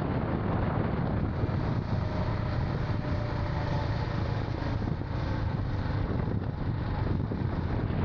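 Royal Enfield Scram 440's single-cylinder engine running steadily under way, with wind noise on the microphone.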